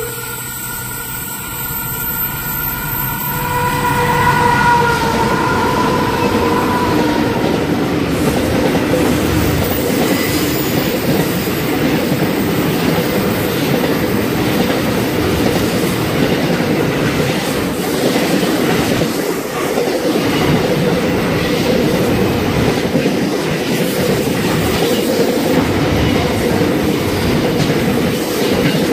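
A train rolling past, its wagons' wheels clicking over the rail joints, growing louder about four seconds in and staying steady. Over the first few seconds the tail of a horn tone fades away.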